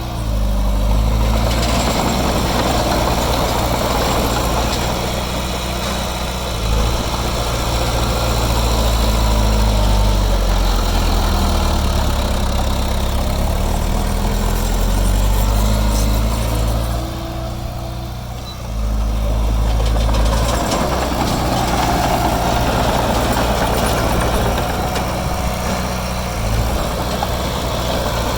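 Heavy diesel engine of earthmoving machinery running, its pitch rising and falling as it works, with a short dip in level about two thirds of the way through.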